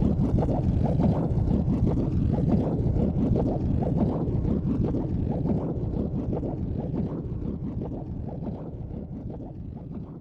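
Helicopter engine and rotor noise, a dense low rumble that fades out gradually over the second half.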